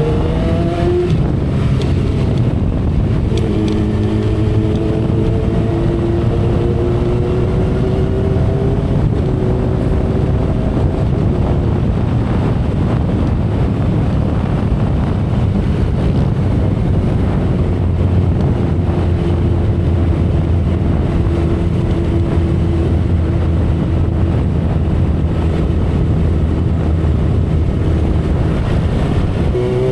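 2012 Kawasaki ZX-10R's inline-four engine pulling up through the revs, then running at steady cruising revs under heavy wind noise, and opening up again with a rising pitch near the end.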